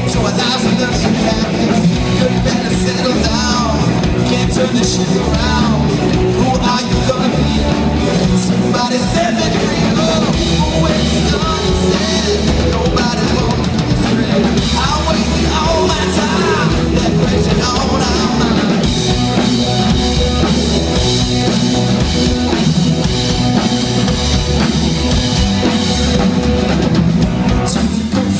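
Rock band playing live and loud, with drum kit and guitars steady throughout.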